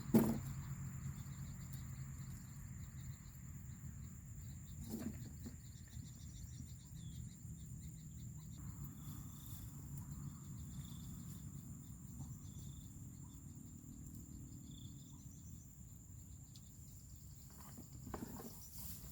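Insects chirping steadily around the pond, with a constant high whine under rapid pulsed chirps. A sharp knock comes right at the start, a softer one about five seconds in, and a few faint thuds near the end.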